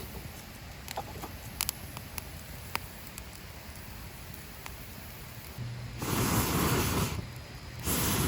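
Small wood fire crackling with scattered sharp pops, then about six seconds in two loud hissing rushes, each about a second long.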